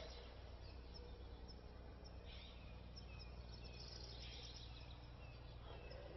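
Near silence: faint steady recording hum and background noise, with a few faint, short bird chirps scattered through.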